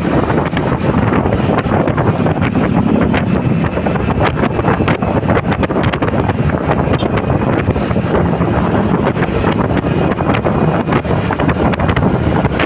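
Wind buffeting the microphone on a moving motorcycle, a loud steady rumble mixed with the motorcycle's running and road noise.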